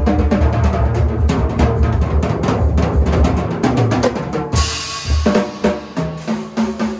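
Drum kit played fast and busy, dense snare, tom and bass drum strikes, with a cymbal crash about four and a half seconds in.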